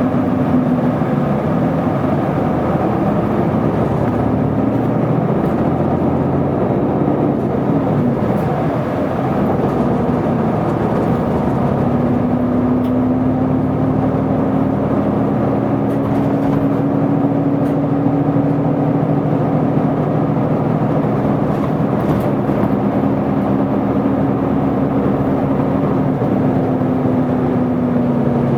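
Isuzu Erga diesel city bus under way, a steady run of engine and road noise. The engine note rises for a few seconds, drops back about eight seconds in, then climbs again and holds before easing off near the end.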